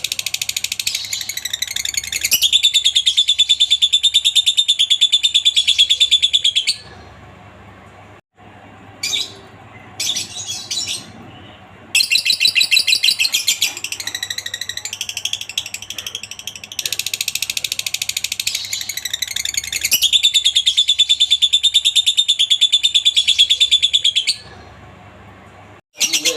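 Lovebird giving its long, very rapid chattering trill (ngekek), in two bouts of several seconds each, with a short pause and a few brief calls in between.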